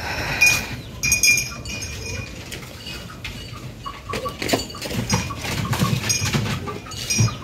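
Short high-pitched bird chirps, repeated in small clusters, with low rustling and knocks between them.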